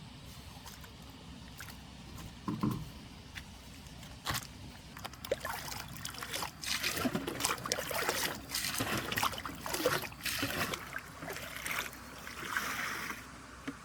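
Water splashing and trickling beside a small boat, with scattered knocks. There is one low knock about three seconds in, and from about five seconds in the splashing comes in irregular bursts before easing off near the end.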